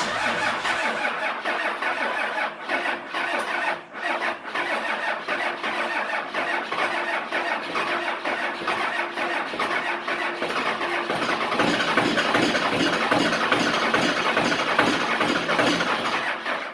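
Starter cranking a diesel engine that fails to fire, a steady pulsing churn held for about seventeen seconds before it stops abruptly. It grows louder and more distinctly pulsed about eleven seconds in, as the engine almost catches on weak batteries.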